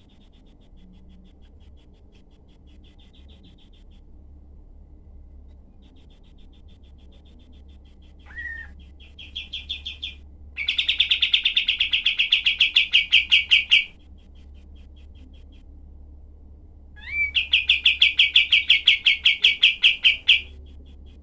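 Kapas tembak bulbul singing: faint fast repeated notes, then two loud, dense bursts of rapid harsh notes, the tight volleys of its song. A steady low hum sits underneath.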